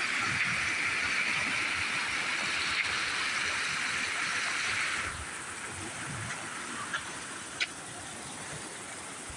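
Steady rush of water pouring over a small waterfall, which becomes a little quieter about five seconds in, with two faint clicks near the end.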